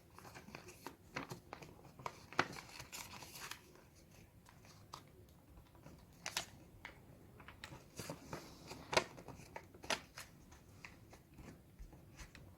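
A sheet of A4 paper being folded and creased by hand: soft, irregular rustles and crinkles, with a few sharper crackles scattered through.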